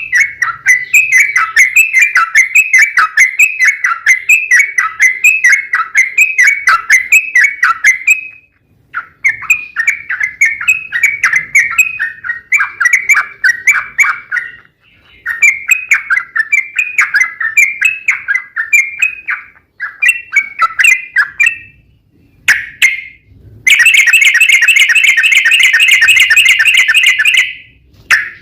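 Yellow-vented bulbul (trucukan) singing: bouts of quick bubbling chirps, about two notes a second, broken by short pauses, then near the end a long unbroken rapid trill, the 'ropel panjang', lasting about four seconds.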